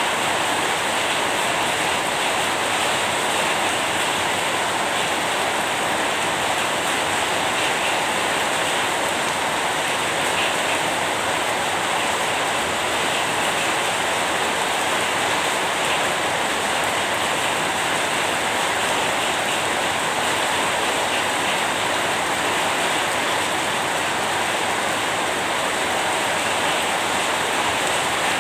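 Steady rain falling: an even, unbroken hiss without distinct drops or thunder.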